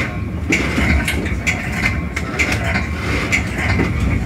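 Metra commuter train running, heard from the cab car: a steady low rumble with a sharp metallic strike repeating about once a second.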